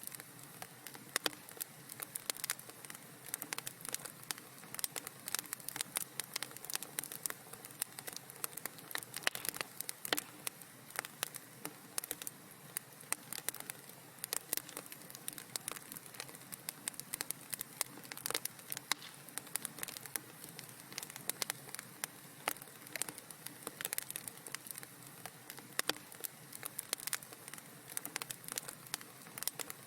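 Wood fire crackling in a fireplace: a steady soft hiss with dense, irregular pops and snaps throughout.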